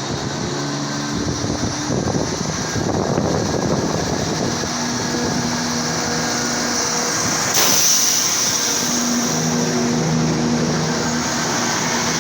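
Class 171 Turbostar diesel multiple unit pulling away, its underfloor diesel engines running with a steady drone whose pitch shifts in steps as it accelerates. A louder rush of noise comes in suddenly about eight seconds in.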